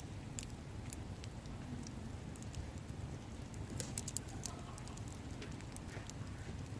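Wood campfire crackling: scattered sharp pops, with a quick cluster about four seconds in, over a low steady rumble.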